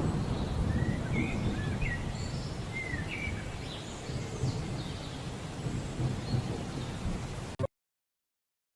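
Outdoor ambient noise: a steady low rumble with a few short bird chirps in the first half. It cuts off abruptly to silence about a second before the end.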